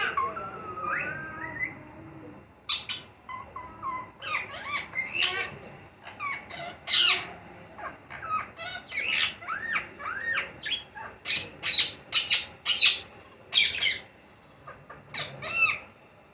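Ringneck parrots calling: a quick run of short squawks and chirps, several of them arching up and down in pitch, with short pauses between groups.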